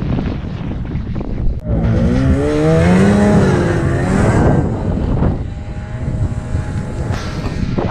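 Wind buffeting the microphone throughout, with a Ski-Doo snowmobile engine coming in about two seconds in: its note rises, wavers and falls over a few seconds, then holds as a fainter steady tone near the end.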